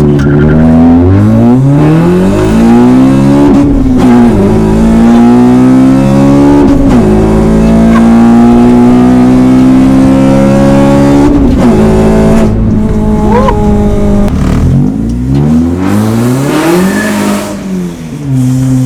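Honda Civic Type R's K20 four-cylinder engine pulling hard under acceleration. Its pitch climbs and then drops sharply at each gear change, several times over.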